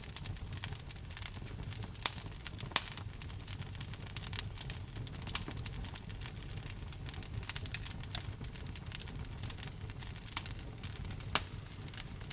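Wood logs burning in a fireplace, crackling steadily with a few louder pops over a low rumble of the flames.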